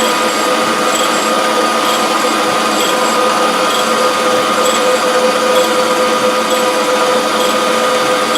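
Surface grinder running with a steady whine, with faint high ticks about once a second.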